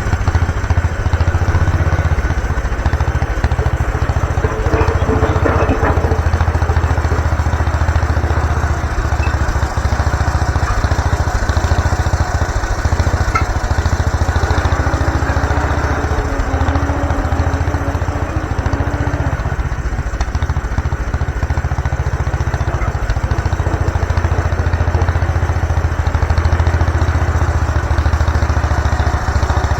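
MTD garden tractor's small gasoline engine running steadily at a constant speed.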